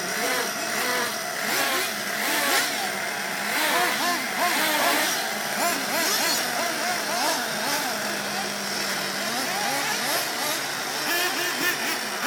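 Sworkz BK350 RC buggy's O.S. VZ-B nitro engine running, its pitch rising and falling in quick, repeated swells as the throttle is worked on and off.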